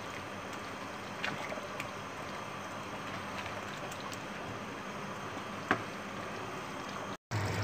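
Mutton and potato pieces frying in oil in a kadhai, a steady sizzle, while a spatula stirs them, with a few light taps of the spatula against the pan, the sharpest late on.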